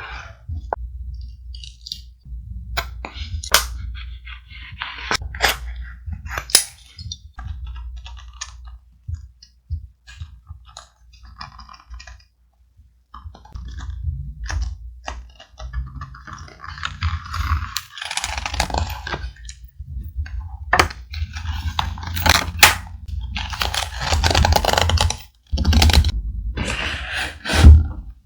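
Thick paper and scrap pieces being handled for a vintage scrapbook page: scattered sharp taps and clicks in the first half, then longer bouts of paper rustling and crinkling from about halfway in, over a low steady rumble.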